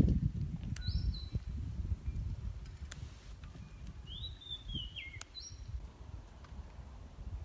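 A bird calls in short whistled notes, one about a second in and a falling phrase around four to five seconds in. Under it run soft low rustling and a few light taps as leaves are stripped from herb stems by hand.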